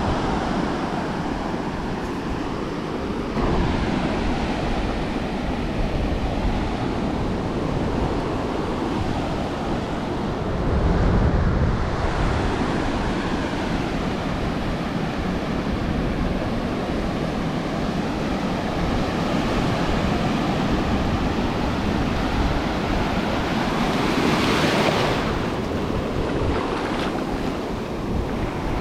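Ocean surf washing onto a beach, with wind buffeting the microphone. Near the end, one wave swells louder and washes out.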